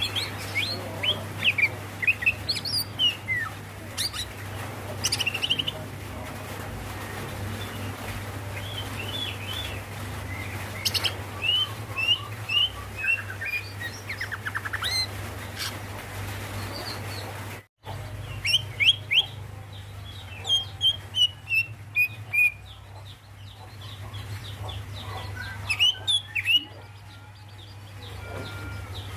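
Female greater green leafbird (cucak ijo) calling for a male: runs of short, quick chirps and downslurred whistled notes, over a steady low hum. The sound drops out briefly about two-thirds of the way through.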